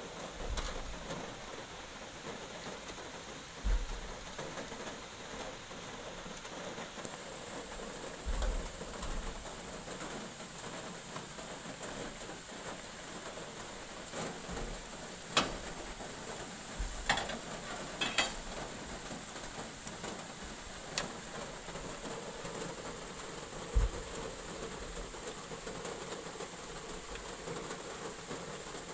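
Heavy rain falling steadily, with a few sharp knocks and low thumps scattered through it.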